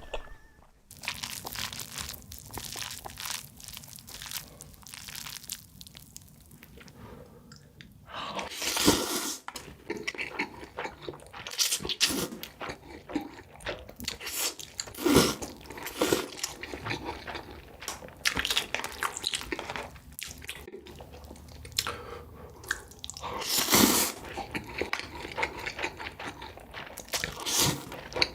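Close-miked eating of noodles: chewing with wet crunching and smacking clicks, and a few louder bursts of about a second each.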